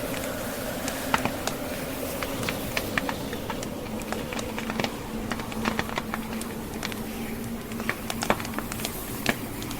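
Log fire crackling, with irregular sharp pops and snaps, over a steady rushing blizzard wind with a low howling tone.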